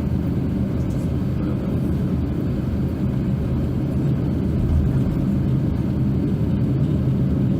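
Steady low cabin rumble of an Airbus A350-900 on the ground before take-off, its Rolls-Royce Trent XWB engines at idle.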